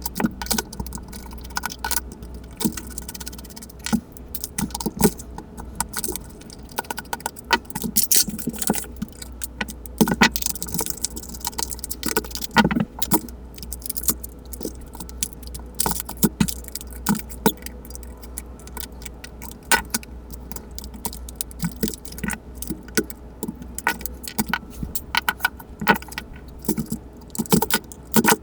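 Irregular clicks, taps and small rattles of tools and small parts being handled while a battery-powered plush toy is taken apart. A steady low hum runs underneath.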